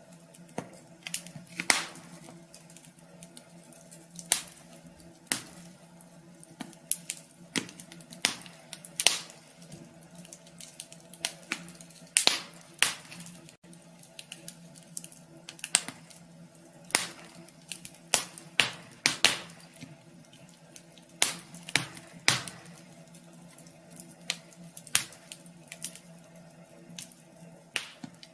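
Wood fire crackling in a wood stove: irregular sharp pops and snaps of burning logs, over a faint steady hum.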